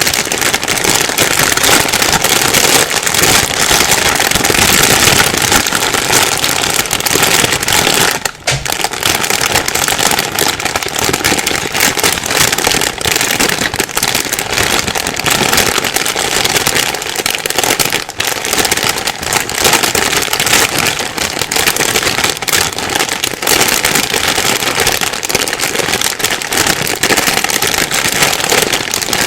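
A plastic bag being rustled and crinkled by hand without a break, a dense, loud crackling with brief lulls about eight seconds in and again around eighteen seconds.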